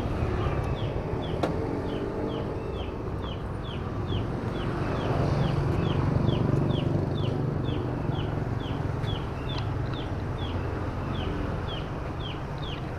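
A bird peeping over and over, short high falling chirps about two or three a second, over a steady low rumble.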